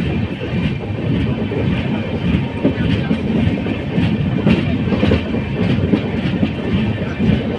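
Passenger train running along the track, heard on board: a steady low rumble with a rhythmic clickety-clack of wheels over rail joints.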